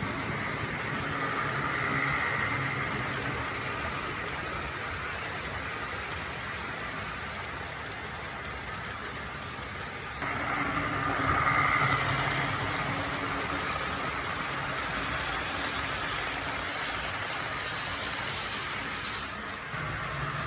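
HO-scale model train running on the track, a steady motor and wheel rumble that swells as it passes around two seconds in and again around eleven to twelve seconds in. The sound jumps abruptly about ten seconds in.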